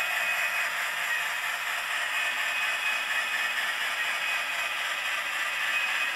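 Sound from a Soundtraxx Tsunami 'Heavy Steam' sound decoder in an N scale model steam locomotive, played through a tiny speaker: a steady hiss with no bass and no chuff rhythm.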